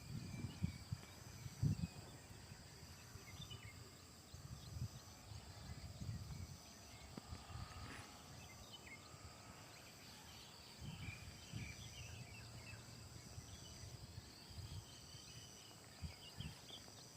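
Outdoor morning ambience: faint birds chirping here and there over an irregular low rumble that comes and goes, loudest in the first two seconds.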